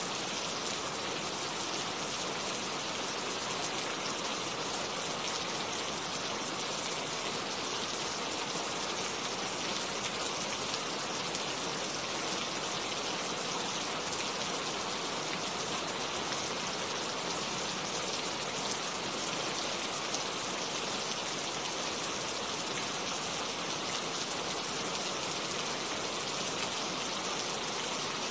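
Steady rain falling, an even hiss of drops with no change or break.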